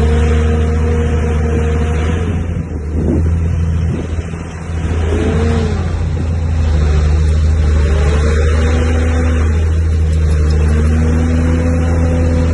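Heavy earthmoving machine's diesel engine running hard under load, a steady low drone with its pitch swelling and falling as it works. The engine briefly eases off about three to four seconds in.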